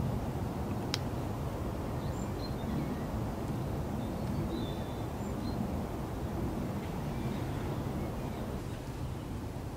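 Wind buffeting the microphone in a steady low rumble, with a few faint short bird chirps and a single sharp click about a second in.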